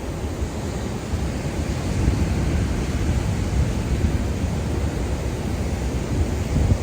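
Surf washing onto a beach in a steady roar that swells a little about two seconds in, with wind rumbling on the microphone.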